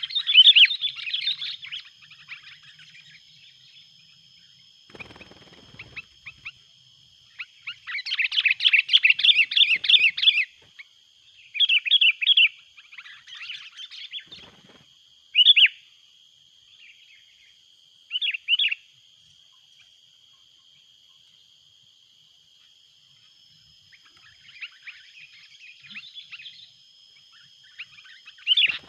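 Sooty-headed bulbuls (kutilang) calling noisily: bursts of fast, loud chattering notes that last from under a second to about three seconds, with pauses between them.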